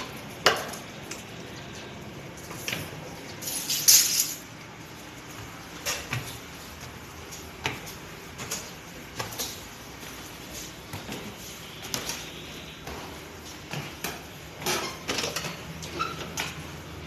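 Scattered light knocks and clicks over a steady low hum, with a louder scraping rush about four seconds in.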